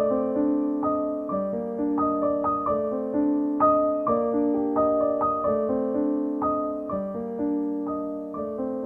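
Gentle background piano music, notes struck in a steady flowing pattern.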